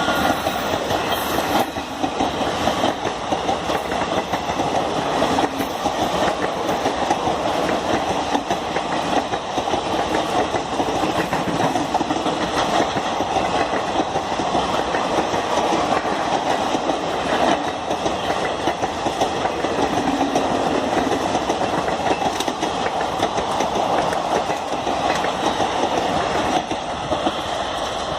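Passenger train running at speed, heard from on board: a steady rumble with wheels clattering over the rail joints.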